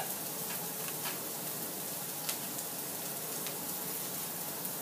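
Chopped onion and garlic sizzling in hot coconut oil in a wok: a steady frying hiss with a few sharp crackles, the onion starting to brown.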